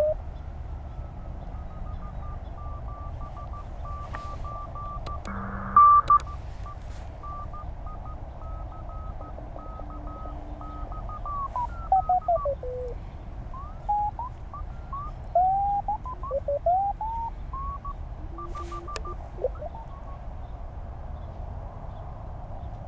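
Morse code (CW) signals and band noise from the Penntek TR-35 receiver as it is tuned across a busy 20-metre band. Keyed beeping tones come and go, and their pitch slides up and down as the dial sweeps past stations, with a louder burst of noise about six seconds in.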